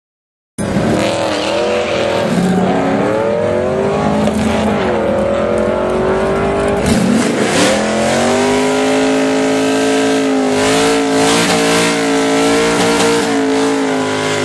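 Cammed LS-series V8 of a Pontiac WS6 Trans Am with a six-speed manual. It cuts in about half a second in and revs up and down unevenly at the line, then about seven seconds in dips and climbs as the car launches. It holds a high, fairly steady pitch as it accelerates away down the drag strip.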